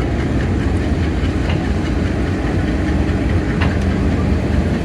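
A diesel engine idling steadily aboard a stationary passenger train, with a low rumble. There is a single click a little past halfway.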